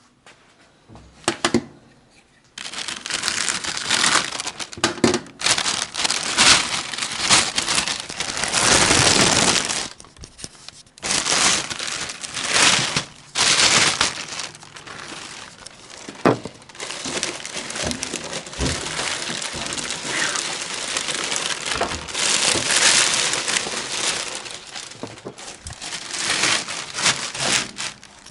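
Packing material crinkling and rustling as it is handled and pulled away during unboxing. It comes in uneven loud stretches, with a few sharp knocks.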